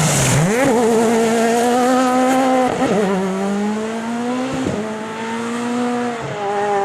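Rally car engine pulling hard on a special stage. Its pitch climbs, with quick gear shifts about three and about five seconds in, and it grows fainter toward the end as the car moves away.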